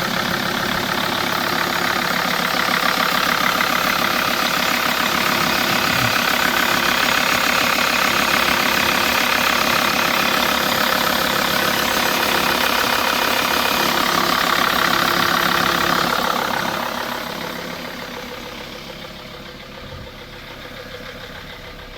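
Dodge Sprinter 2500's 2.7-litre five-cylinder turbodiesel idling steadily with diesel clatter, heard close at the open engine bay. It gets clearly quieter about three-quarters of the way through.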